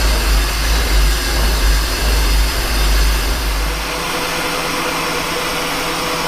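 Metal lathe taking a light roughing cut on a steel shaft with a carbide insert: steady machining noise over a heavy low rumble. About four seconds in the rumble drops away, leaving a steadier hiss with a faint hum.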